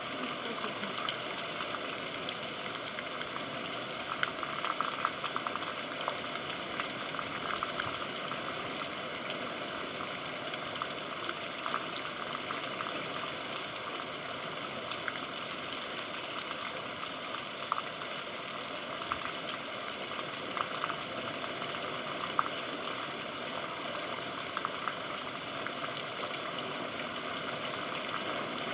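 Steady rain: an even hiss of falling water with scattered sharp ticks of single drops.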